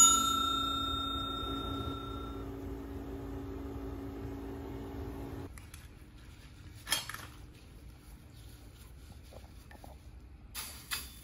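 A piece of steel is struck and rings out with a clear metallic tone that fades over about two seconds, over a steady low machine hum that cuts off about five seconds in; a few light metal knocks follow.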